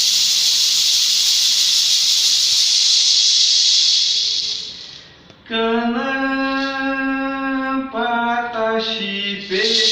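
A loud, steady hiss that fades out about halfway through. Then a voice sings long held notes for about four seconds, stepping in pitch a few times, before the hiss comes back near the end.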